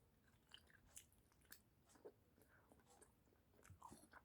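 Faint chewing of a piece of boiled chicken from the soup: soft irregular mouth clicks, a few to the second.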